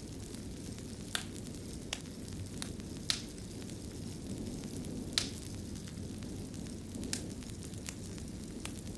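Wood fire crackling in a fireplace: a steady low rumble of flame with scattered sharp pops, the loudest about one, three and five seconds in.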